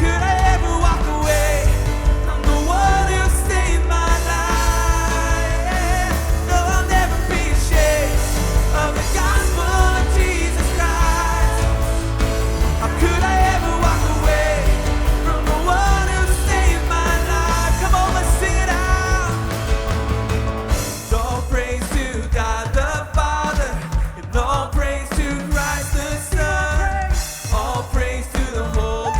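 Live worship band playing and singing: sung vocals over drums, bass guitar, electric guitar and piano. About two-thirds of the way through, the bass and drums drop back and the song goes quieter and sparser while the singing continues.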